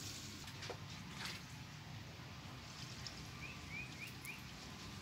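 A small bird gives four quick rising chirps about three and a half seconds in, over a steady low background rumble and a few soft clicks in the first second or so.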